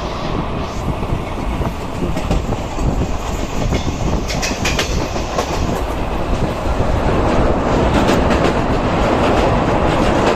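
Passenger train running on the rails, heard from on board: a steady rumble with wheels clattering over rail joints, a burst of sharp clicks about halfway through, and the noise growing louder in the second half.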